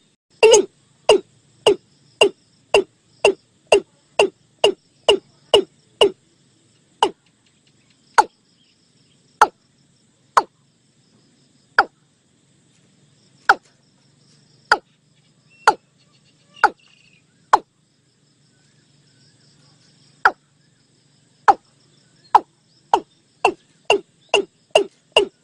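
Calls of the bird known in Thai as นกอีกลุ้ง: a series of short, sharp notes, each falling quickly in pitch. They come about two a second at first, slow to about one a second through the middle, then quicken again near the end.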